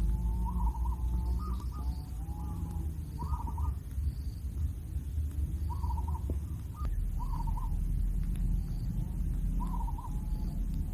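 Kingfisher chicks giving short, harsh calls in scattered bursts, about every one to two seconds, over a steady low rumble.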